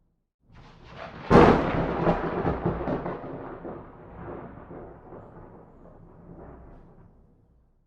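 A thunderclap. After a brief build-up, a sharp crack comes about a second in, then rolls and rumbles and fades away over several seconds. The sound drops to dead silence near the end.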